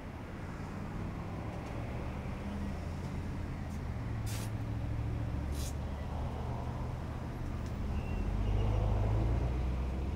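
Low rumble of a motor vehicle's engine that grows louder near the end, with two short sharp hisses in the middle.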